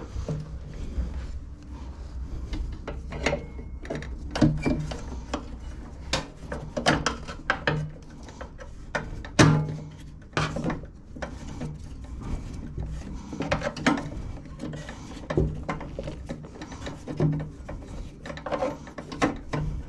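Irregular metal clicks and knocks of hand tools and parts being worked on a lawnmower's front height adjuster during repair.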